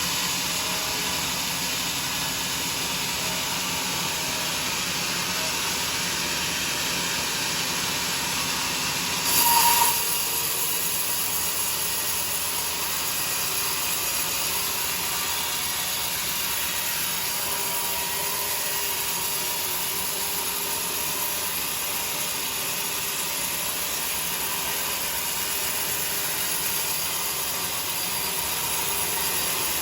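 Sawmill cutting a teak log, a steady mechanical running noise with a brief louder burst about nine seconds in, after which the hiss is brighter.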